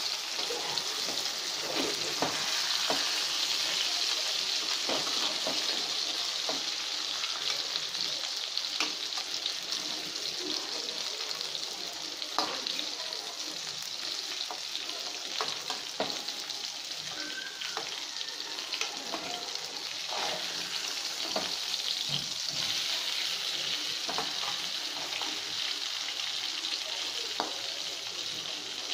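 Brinjal pieces sizzling steadily in hot coconut oil in a frying pan, with scattered scrapes and taps of a metal slotted spatula on the pan as the pieces are turned over.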